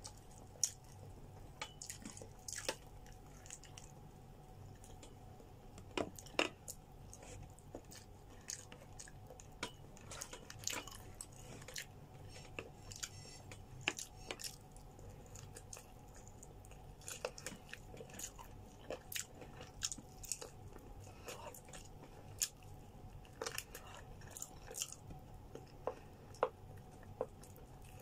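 Close-up mouth sounds of someone eating grilled chicken by hand: steady chewing with many small, irregular smacks and clicks of biting, over a faint steady hum.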